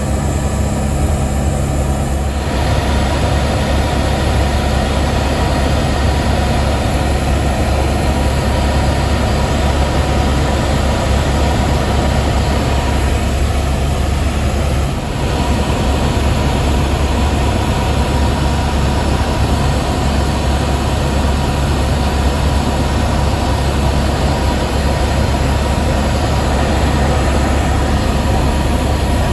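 Helicopter turbine and rotor noise heard from inside the cabin: a loud, steady drone that drowns out talk.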